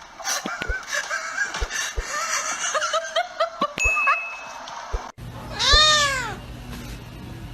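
Pet animal calls: a quick run of short, high, squeaky calls with a few clicks. After a sudden cut comes one loud drawn-out call that rises and then falls in pitch.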